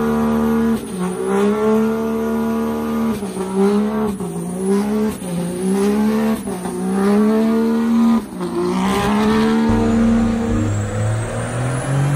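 A vehicle engine held at high revs, its pitch steady apart from brief dips and recoveries every second or so.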